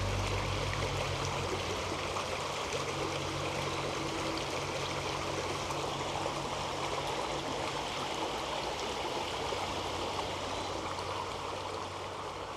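Steady rushing of a flowing creek, with a low hum fading out over the first couple of seconds.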